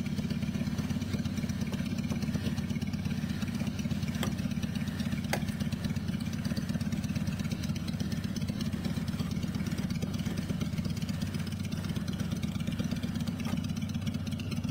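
A motor or engine running steadily with an even low rumble of rapid pulses. Two faint clicks come about four and five seconds in.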